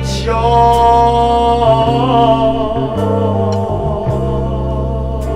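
Gospel music: a voice holds one long sung note with a slight vibrato over a steady bass backing.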